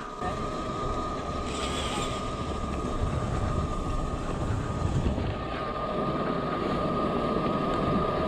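Yatri P1 electric motorcycle being ridden over a rough road: a steady high motor whine over wind and tyre noise. The whine fades for a moment about halfway through and comes back, while the rumble grows louder.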